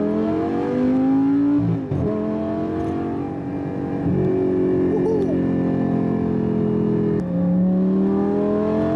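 Lamborghini's 5.2-litre V10 under hard acceleration, heard from inside the cabin. Revs climb, fall sharply at an upshift about two seconds in, hold fairly level through the middle, then fall at another shift about seven seconds in and climb again.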